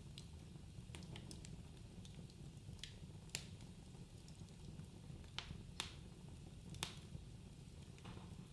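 Wood fire crackling in a fireplace: irregular sharp pops and snaps, the loudest about three seconds in and twice near six to seven seconds, over a steady low rumble of the flames.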